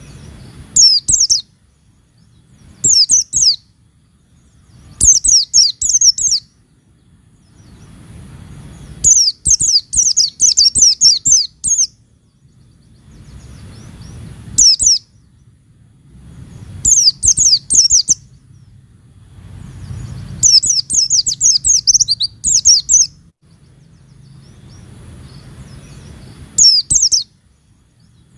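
White-eye (pleci) singing in repeated bouts of rapid, high, twittering chirps, each bout lasting about half a second to three seconds, with short pauses between them.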